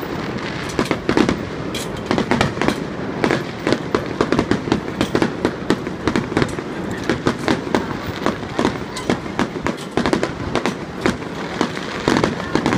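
Aerial fireworks bursting in a rapid, uneven run of bangs, several a second, with no letup.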